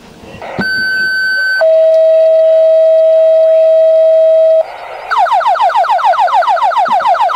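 Fire dispatch alert tones. A two-tone page, a steady higher tone for about a second followed by a lower tone for about three seconds, then a rapidly repeating falling alert tone at about seven sweeps a second, signalling the start of a dispatch call.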